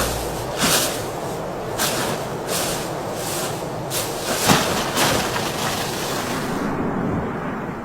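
Strong wind blowing: a steady loud rush with repeated swells every second or so.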